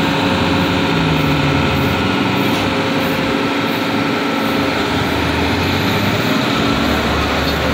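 Vehicle engine running steadily, with a deeper engine hum joining about five seconds in.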